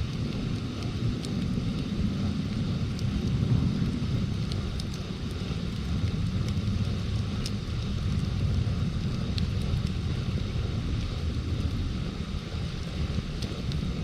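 Wood campfire crackling, with sparse sharp pops and snaps at irregular moments. Under it runs a steady low rumble, louder than the fire, like wind buffeting the microphone.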